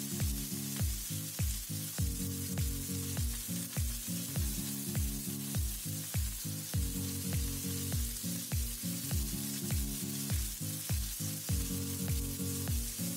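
Prawn skewers sizzling as they fry in oil and ghee in a flat pan, with background music carrying a steady beat of low drum hits about twice a second.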